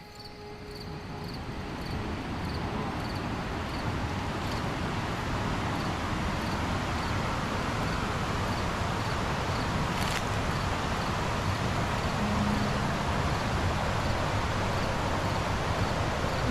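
Rain forest ambience: a steady rushing noise that swells over the first few seconds and then holds, with an insect chirping in a quick, even pulse of about two a second. One brief click about ten seconds in.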